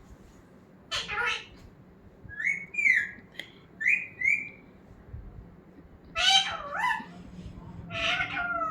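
Pet parrot calling and whistling: a brief call about a second in, four short rising whistles over the next couple of seconds, then longer warbling calls near 6 seconds and again near the end.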